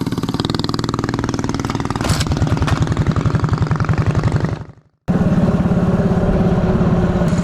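Small mini bike engines idling with a steady, even putter, a little louder from about two seconds in. Shortly after the middle the sound fades quickly to silence, then the idling comes back abruptly at the same steady level.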